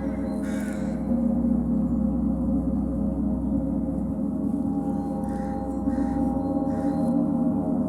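A gong played continuously in a sound bath: a sustained, shimmering wash of many overlapping steady tones that swells about a second in.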